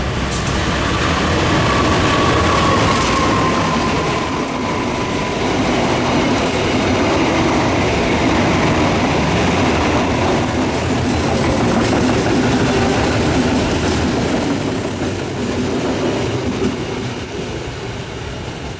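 A train rolling past with a steady rumble of wheels on rails and some clickety-clack. A thin high wheel squeal sounds over the first few seconds, and the noise fades near the end as the train moves away.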